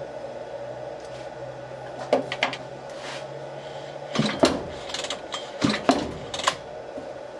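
Mechanical clicks, knocks and rattles from parts and tools being handled on a post hole digger, in clusters about two, four and six seconds in, over a steady background hum.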